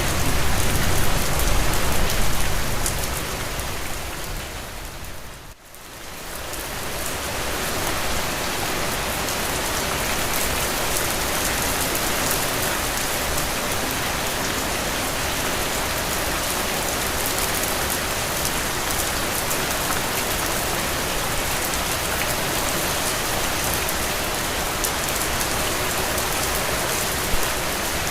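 Steady rain falling and pattering on surfaces. Its level dips sharply and briefly about five seconds in, then comes back up and holds steady.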